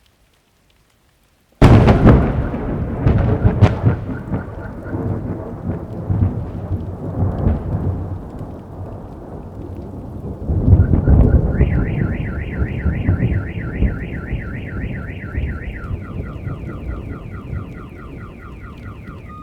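A close lightning strike: a sudden, very loud thunderclap about a second and a half in, rumbling on and slowly fading, with a second loud roll of thunder about ten seconds in. Just after it a car alarm starts sounding, a rapid rising-and-falling warble that switches to a different repeating pattern near the end.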